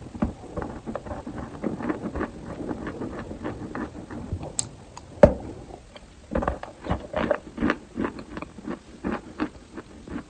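Eating chalk close to the microphone: dense, irregular crunching and chewing of hard chalk pieces, with one sharp loud snap about five seconds in, like a bite breaking off a piece.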